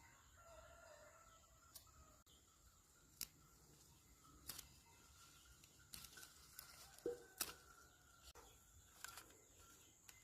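A rooster crowing faintly once, in the first second or so. Scattered sharp clicks and knocks follow, the loudest two close together about seven seconds in.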